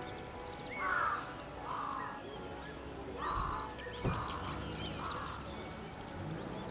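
A bird calling harshly five times, with smaller birds chirping higher and a sharp knock about four seconds in.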